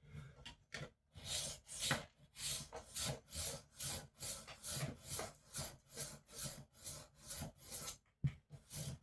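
Rolling knife sharpener's abrasive disc rolled back and forth along a kitchen knife's edge, a regular series of short rasping strokes, about two a second.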